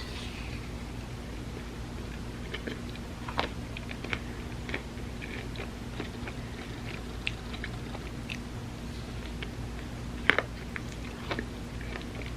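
Close-miked eating of an ice cream sandwich: soft bites and chewing with scattered short mouth clicks, the loudest about ten seconds in.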